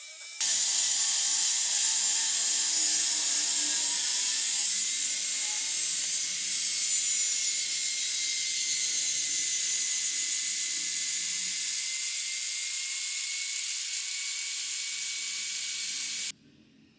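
Angle grinder cutting metal with an abrasive disc: a loud, steady hiss over the motor's whine, starting abruptly right at the start and cutting off sharply near the end.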